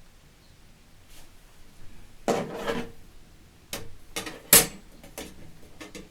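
Stainless-steel fire pit parts being handled and fitted together: a metallic scrape and rattle, then several sharp metal clanks, the loudest past the middle.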